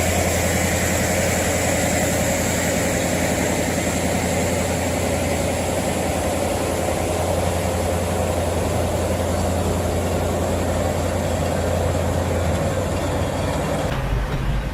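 Heavy diesel engine of a large transport vehicle running steadily under load, with a deep, constant hum; the sound changes suddenly near the end.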